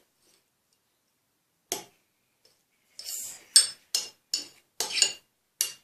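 A spoon stirring thick slime in a dish, knocking against its side: one click about two seconds in, then a quick run of about seven clinks in the last three seconds.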